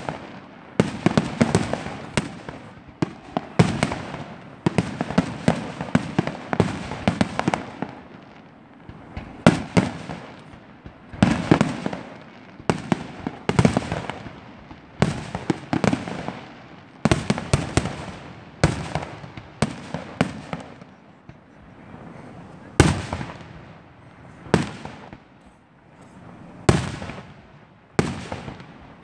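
Aerial fireworks shells bursting, each bang trailing off in an echo. There is a rapid run of bangs for the first several seconds, then single bursts about every one to two seconds.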